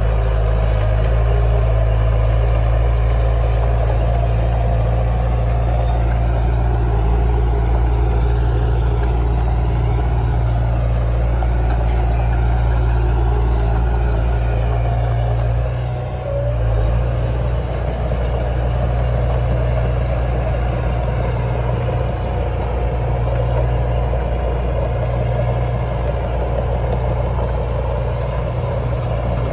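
Heavy diesel engine of earthmoving machinery running steadily with a low, even drone, dipping briefly in loudness about sixteen seconds in.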